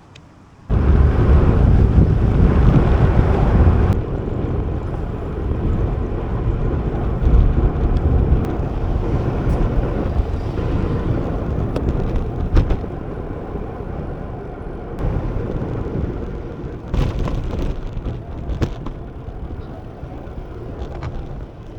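Low rumbling wind noise buffeting the microphone. It starts abruptly about a second in, is loudest for the first few seconds, then carries on steadily and eases off near the end.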